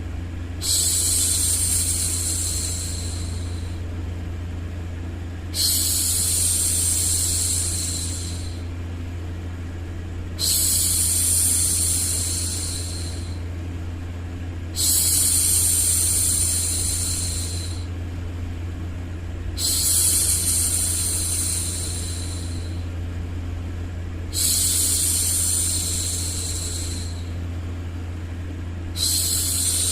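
A woman's hushing "shhh", each a long breathy hiss of two to three seconds, repeats about every five seconds. Under it runs a steady low white-noise hum.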